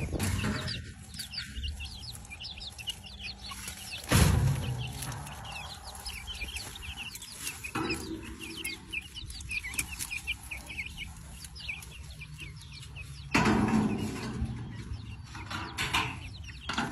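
A flock of young chickens peeping and clucking as they forage, a steady stream of short, high chirps. A few louder, duller knocks or rustles come through about four, eight and thirteen seconds in.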